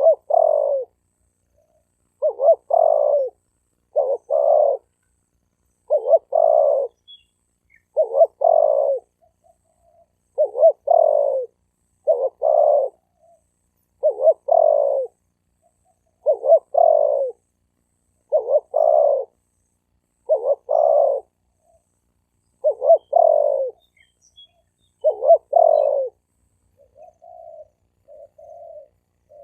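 Male spotted dove calling: a loud, repeated cooing phrase about every two seconds. Near the end it changes to softer, shorter coos.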